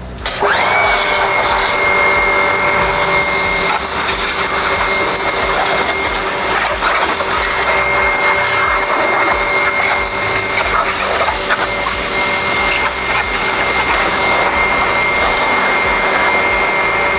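Electric high-pressure washer (jet cleaner) starting up about half a second in: its motor whine rises quickly to a steady pitch and then runs steadily, over the hiss of water spraying from the stick gun lance.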